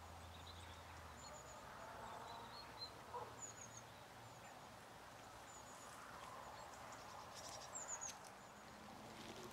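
Faint open-air background with a small bird chirping now and then, in short high calls, and a few soft rustles around three and eight seconds in.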